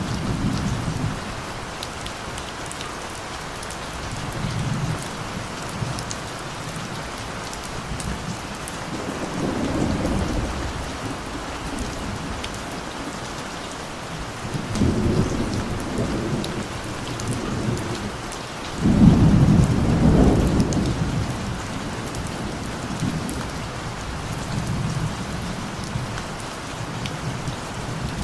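Steady rain falling, with repeated low rolls of thunder swelling and fading every few seconds; the strongest roll comes about two-thirds of the way through.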